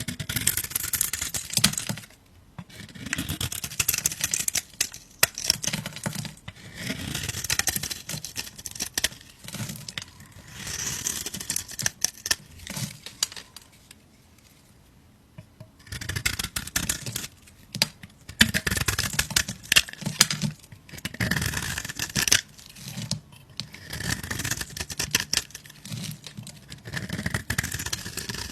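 A knife cutting through a bar of soap, stroke after stroke. Each cut is a crisp, crackling scrape lasting a second or two, and there is a pause of about three seconds partway through.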